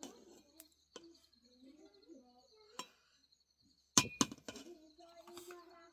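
A scattered series of sharp clinks and knocks, like hard objects being set down or tapped, with the two loudest about four seconds in.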